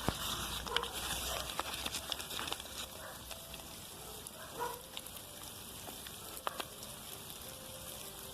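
Soft crackling rustle with scattered sharp clicks and ticks.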